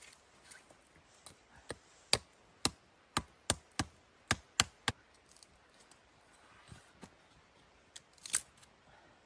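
A series of sharp knocks, about eight in quick succession, a pause, then two more near the end.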